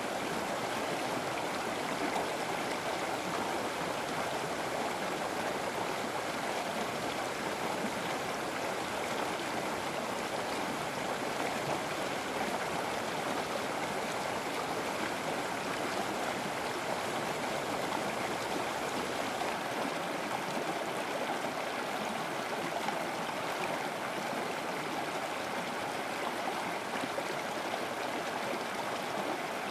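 River water flowing over a streambed: a steady, even rush of moving water.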